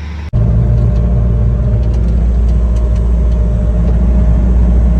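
Heavy machinery engine running steadily, close and loud, with a deep rumble. It starts abruptly just after the beginning.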